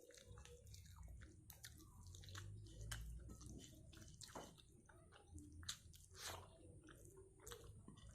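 A person chewing and biting food close to the microphone: a quiet, irregular run of short clicks and crackles with a low rumble underneath.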